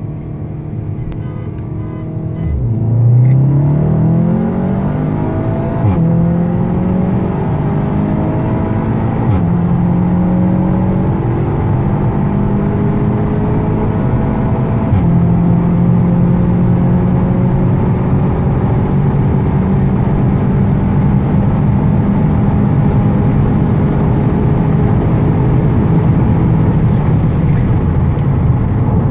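Seat Leon Cupra 290 Mk3's turbocharged 2.0-litre four-cylinder at full throttle, heard from inside the cabin. The revs jump about two seconds in, then climb slowly, with upshifts that drop the pitch every few seconds. Steady road and wind noise at well over 170 km/h runs under it.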